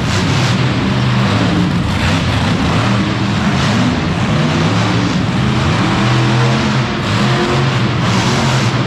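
Monster truck engine running loud at high revs, its pitch stepping up and down as it is revved.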